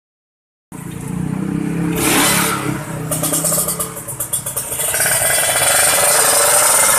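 Two-stroke Kawasaki Ninja single-cylinder engine running through a KDX-style expansion-chamber exhaust, with a crisp, jingling two-stroke note. It starts about a second in, is blipped, stutters unevenly in the middle, then is held at high revs near the end.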